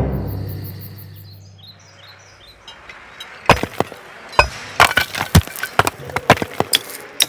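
Cartoon sound effects: a low ringing tone dies away over the first two seconds, then from about three and a half seconds in comes an uneven run of sharp cracks and knocks, several a second.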